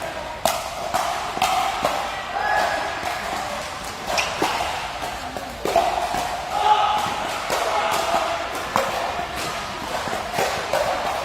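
Sharp ball strikes off rackets at irregular intervals during a doubles rally, some close together, over background music and voices.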